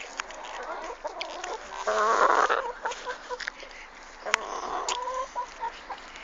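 Chickens clucking in short notes, with one louder squawk about two seconds in.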